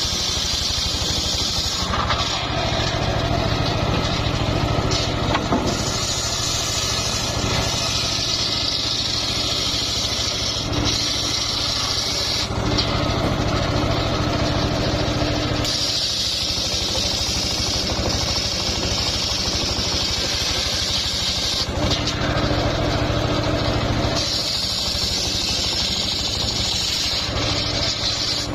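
Engine-driven homemade circular sawmill running steadily while its blade rips old, fairly hard mahogany. A high cutting hiss rises over the engine drone and drops back every few seconds as each cut starts and ends.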